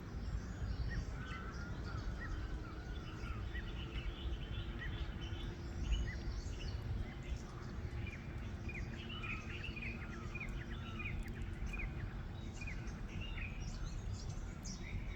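A group of parrots calling: many short, quick chirps overlapping, busiest in the second half, over a steady low background rumble.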